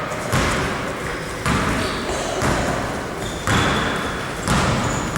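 Basketball dribbled on a gym floor, bouncing about once a second, each bounce echoing in the hall.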